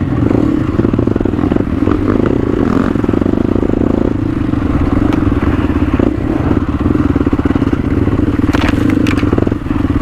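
Motorcycle engine running steadily while being ridden, with some clattering and a few sharp clicks near the end.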